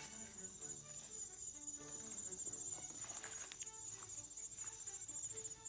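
Crickets chirring steadily at night in one high, continuous trill.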